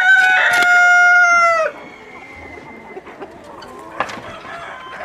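Rooster crowing: the long held last note of the crow runs for the first second and a half or so and drops off at the end. Quieter clucking and short calls from chickens follow, with one louder call about four seconds in.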